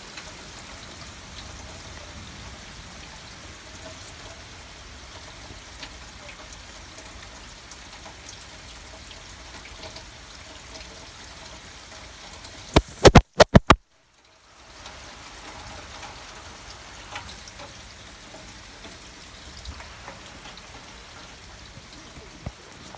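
Steady rain falling during a thunderstorm. About halfway through there is a quick cluster of a few loud clicks, and the sound cuts out completely for under a second before the rain noise returns.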